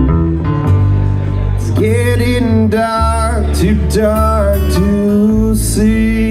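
Live acoustic duo playing: strummed acoustic guitar over a steady low bass, with a melody line that bends and slides in pitch from about two seconds in.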